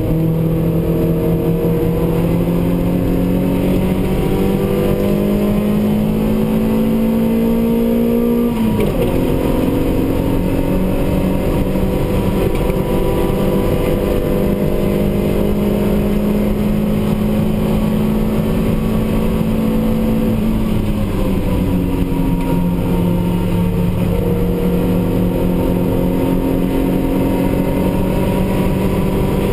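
A race car's engine heard from inside the cabin, pulling hard through the gears: its pitch climbs steadily, drops sharply with an upshift about nine seconds in, climbs slowly, and drops again with another upshift around twenty-one seconds in before climbing once more.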